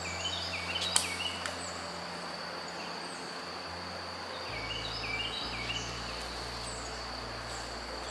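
A songbird sings two phrases of short, downward-sliding whistled notes over a steady high-pitched insect drone. A sharp click about a second in is the loudest sound.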